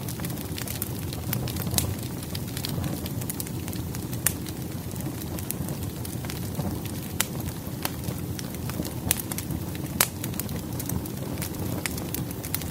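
Firewood burning in a fireplace: a steady low rush of flames with frequent sharp crackles and pops from the burning logs, a few louder snaps among them.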